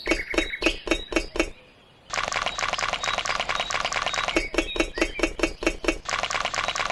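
Small hard objects clinking and tapping: a run of sharp taps, a short pause about a second and a half in, then a fast, dense clatter with a few ringing clinks.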